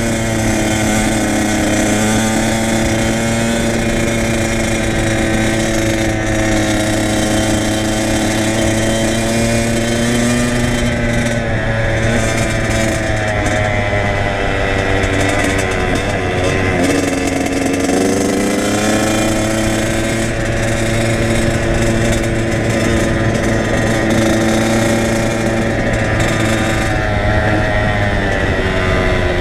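Kawasaki KX100's two-stroke single-cylinder engine running while the bike is ridden. Its pitch rises and falls with the throttle, dropping low about halfway through before climbing again.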